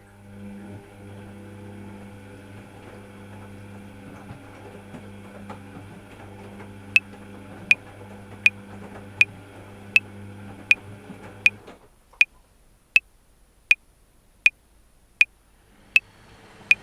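Metronome clicks at 80 beats a minute, starting about halfway in, over a steady low machine hum of a running washing machine that cuts off suddenly near the two-thirds mark.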